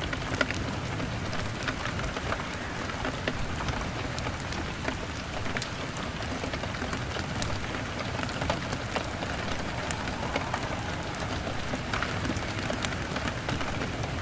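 Steady rain pattering on a window, mixed with a crackling fire: an even hiss with scattered sharp crackles and ticks.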